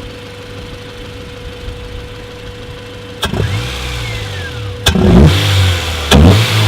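Honda Civic EM1's 1.6-litre B16A2 VTEC four-cylinder idling, then blipped three times, heard as induction noise through a carbon intake. The middle rev, about five seconds in, is the loudest.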